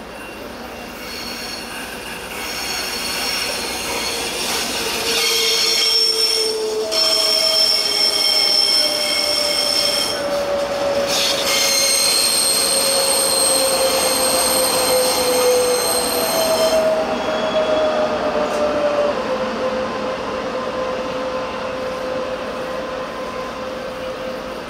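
A commuter electric train running slowly past, its wheels squealing loudly in several steady high tones until about 17 seconds in, when the squeal stops. Under the squeal a lower whine slowly falls in pitch, and the train's sound fades as it moves away.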